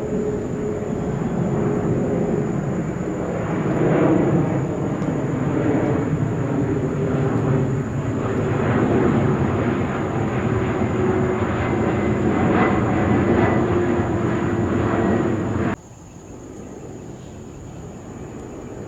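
Airliner engines running loudly close by, a dense rumble with a steady hum in it, which stops abruptly about three-quarters of the way through, leaving a much quieter background rumble. A faint steady high whine sits under it all.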